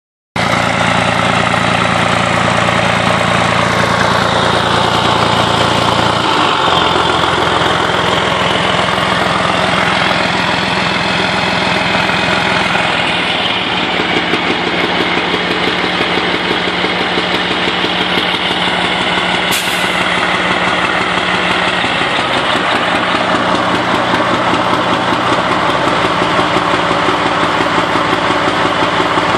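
Freightliner truck's diesel engine idling through a straight-pipe exhaust with no stacks or muffler. The note is loud and steady and changes pitch slightly a couple of times. A brief high whine comes about twenty seconds in.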